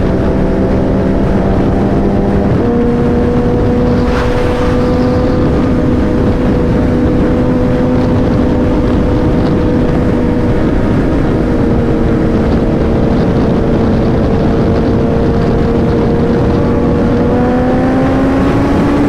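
Motorcycle engine running at speed over loud wind noise. Its pitch steps up about two and a half seconds in, drifts slowly down, then climbs again near the end.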